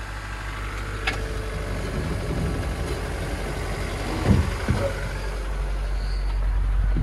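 A car engine running steadily and growing slowly louder, with a sharp click about a second in and a couple of thumps a little past four seconds.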